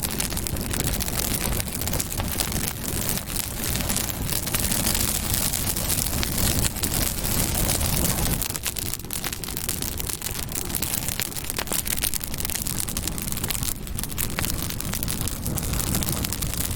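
Campfire burning, with dense crackling over a low, steady rumble of the flames.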